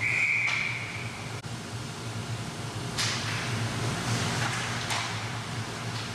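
Referee's whistle blown once, a steady shrill tone lasting about a second, then skates scraping on the ice over a steady low hum of the rink.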